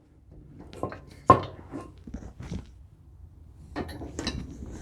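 Metal table-saw parts and hardware clinking and knocking as they are handled during assembly. The sharpest knock comes about a second in, and a few more come near the end.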